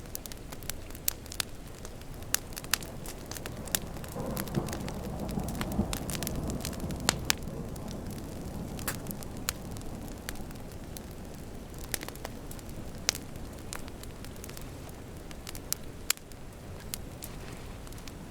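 Wood fire crackling with frequent sharp pops over a steady hiss of rain. About four seconds in, a low rumble of thunder swells and fades over a few seconds.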